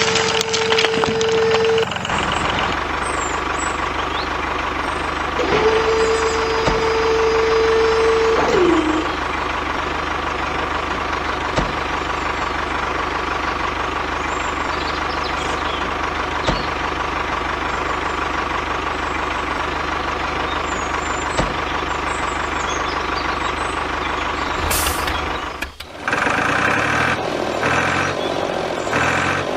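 A motor running steadily with a loud held whine that stops about two seconds in, comes back for about three seconds and then slides down in pitch. The running sound breaks off abruptly and changes character near the end.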